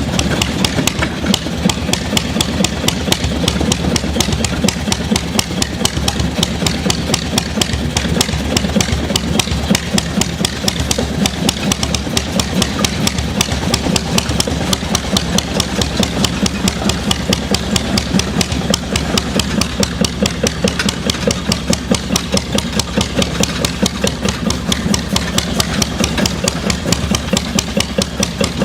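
An engine running steadily at idle, with an even, regular firing beat of about four to five pulses a second.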